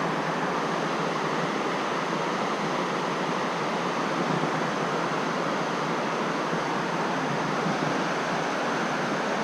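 Steady rushing of a shallow stream flowing over rocks, an even wash of water noise with no breaks.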